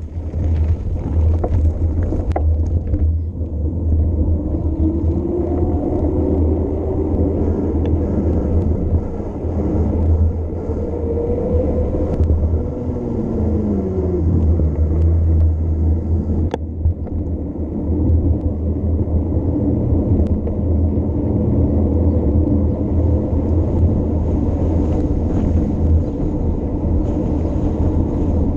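Steady low wind rumble on the microphone of a bicycle descending. Partway through, a motor vehicle's engine note rises and then drops in pitch as it passes.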